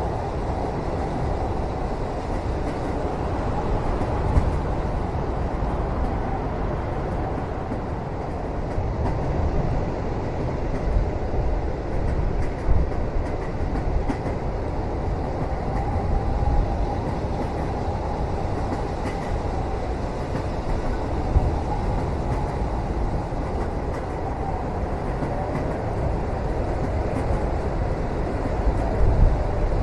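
Passenger train running steadily, heard from inside a sleeper cabin: a continuous low rumble of wheels on track with a faint wavering whine and a few light knocks.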